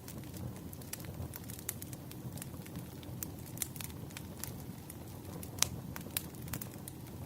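Wood fire crackling: irregular sharp pops and snaps over a low, steady rumble, with one louder pop about five and a half seconds in.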